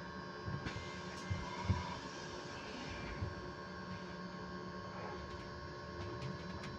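Electric bus giving off a steady whine at a constant pitch, several tones held level over a low rumble, with a few light knocks and clicks.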